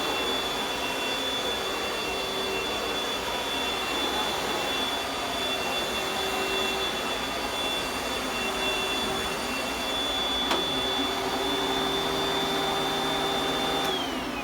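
Panasonic Jet-Flow upright vacuum cleaner running steadily with a high-pitched whine over its rushing noise. Near the end the motor starts to wind down, its whine falling in pitch.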